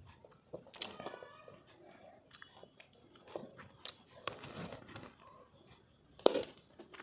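Close-miked biting and chewing of sour mango with spicy chutney: irregular crunches and wet crackles, with one sharp, loud bite about six seconds in.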